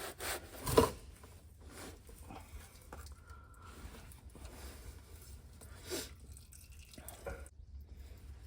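Handling noises from unscrewing an oil filter by hand: two sharp knocks in the first second, then light scrapes, taps and clicks.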